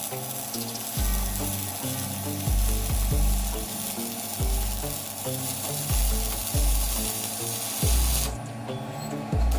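Electric arc welding, a steady crackling sizzle, over background music with a pulsing bass line; the sizzle stops briefly near the end and starts again.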